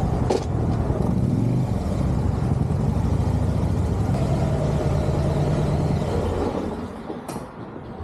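Motorcycle engine running at low speed, its pitch shifting as it is ridden, then falling away near the end, with a sharp click just after.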